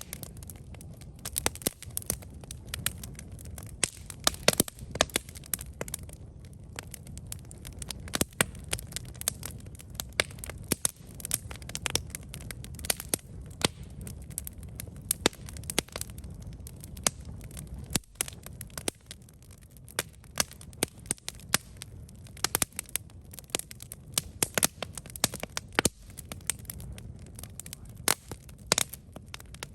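Wood campfire burning, with frequent irregular sharp crackles and pops over a low steady rumble of the flames.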